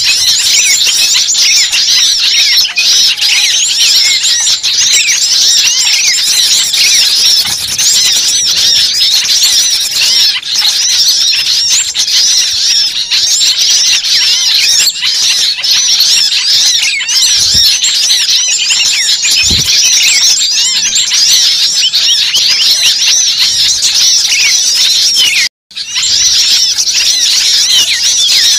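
A dense chorus of many small birds chirping and squeaking at once, without a break except for a brief cut-out about 25 seconds in.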